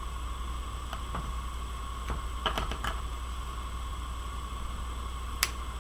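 Light clicks and scratches of fingernails picking at the clear backing of small foam-tape pieces, a few scattered clicks with a small cluster in the middle and one sharper click near the end, over a steady low hum of background noise.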